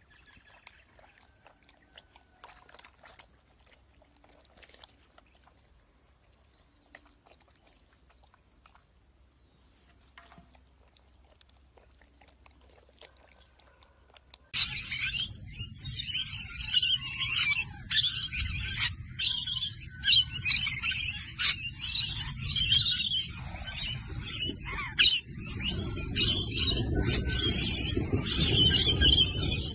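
Faint scattered clicks, then about halfway through a loud, dense chorus of many birds chirping starts suddenly over a low rumble.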